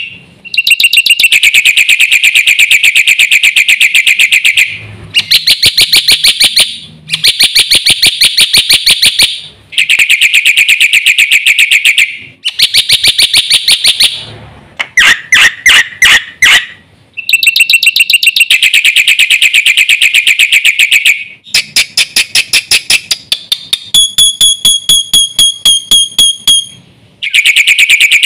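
Black-winged myna (jalak putih) singing loudly in phrases of a couple of seconds. Each phrase is a very fast run of repeated notes, with short pauses between them and a few clear whistles near the end. It is a full song packed with mimicked fill phrases.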